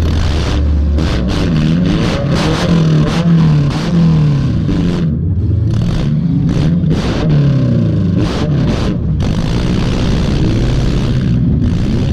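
Junk race car's engine revving up and falling back over and over, with frequent sharp knocks and rattles from the car.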